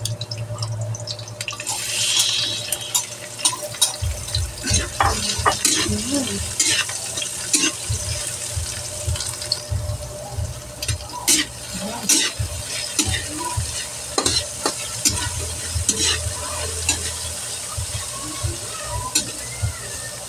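Sliced bitter gourd sizzling in hot oil in a metal wok, with a spatula scraping and knocking against the pan as it is stir-fried. The sizzling swells sharply about two seconds in, and the scrapes and knocks come often from about four seconds on.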